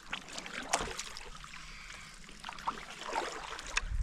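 Stand-up paddleboard paddle strokes in river water: splashing and dripping, with two sharp clicks, one about a second in and one near the end.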